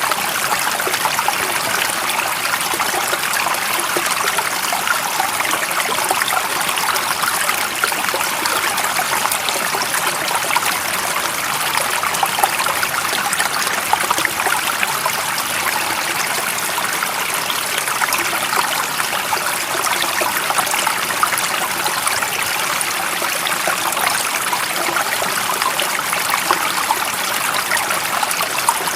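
Running water flowing steadily, an even, unbroken trickling and rushing with most of its sound in the upper range.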